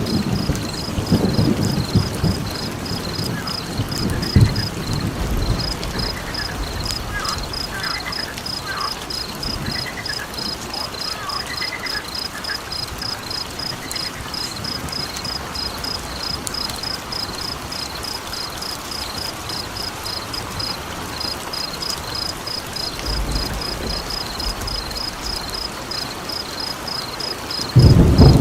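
Rain-and-thunder nature ambience: a steady rain hiss with rolls of thunder at the start and again near the end. Over it an insect chirps evenly, about three times a second, and a few frog calls sound in the first half.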